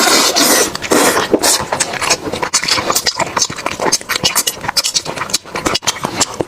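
Close-up eating sounds: a fast, irregular run of crunching and chewing clicks.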